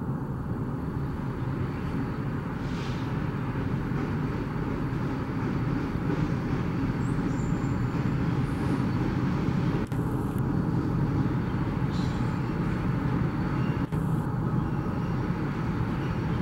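A train rolling past: a steady low rumble of wheels on rail, slowly building in loudness.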